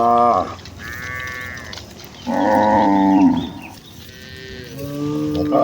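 Several cattle mooing one after another, some calls overlapping, as a herd of village cows is driven home to the pen.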